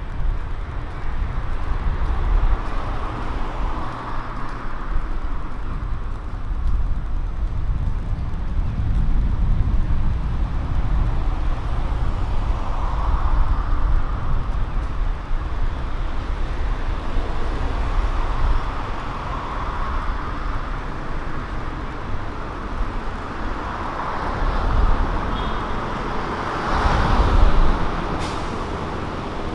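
City street traffic: a steady low engine rumble as cars and buses pass one after another, each swelling and fading. A short sharp sound comes near the end.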